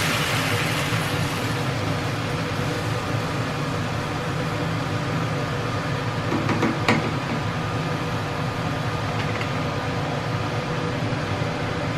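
A steady mechanical hum with a hiss, with one short sharp click about seven seconds in.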